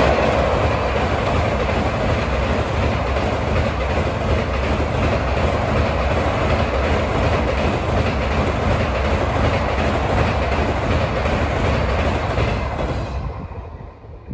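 Passenger express hauled by a WAP-4 electric locomotive crossing a steel girder bridge at speed: a steady rumble and clatter of coach wheels on the bridge. It is loudest at the start as the locomotive goes by and dies away quickly near the end as the last coach clears.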